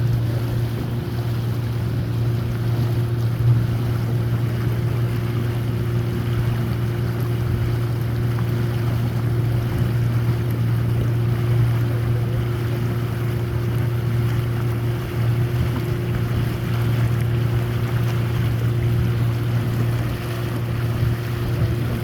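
Tour boat's motor running at a steady speed, a constant low drone, with wind and water noise on the microphone.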